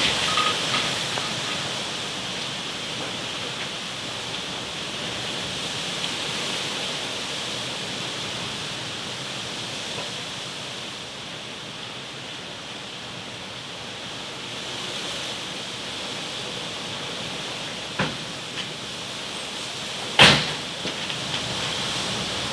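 Steady rushing of strong wind, an even hiss that swells and eases slightly. A short knock about eighteen seconds in and a louder one about two seconds later.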